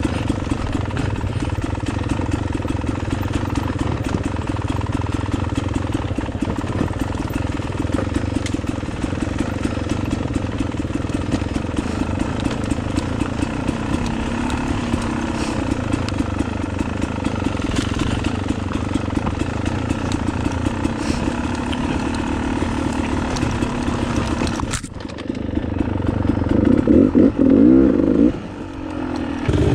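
Motorcycle engine running steadily as it is ridden along a trail. About 25 seconds in the sound breaks off abruptly, then the engine revs louder, rising and falling for a couple of seconds, drops briefly, and picks up again near the end.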